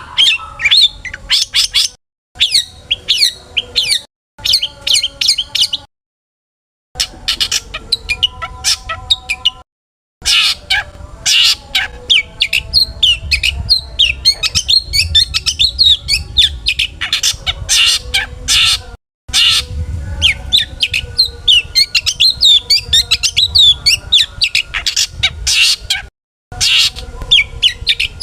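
Long-tailed shrike (cendet) singing a fast, varied run of chirps, trills and harsh squawks full of mimicked phrases. The song cuts off abruptly into dead silence several times and picks up again.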